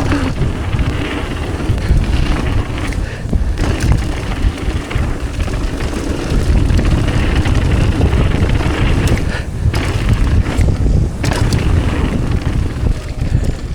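Wind buffeting the microphone over the rumble and rattle of a downhill mountain bike rolling fast down a dirt trail, with scattered small clicks and knocks from the bike over bumps.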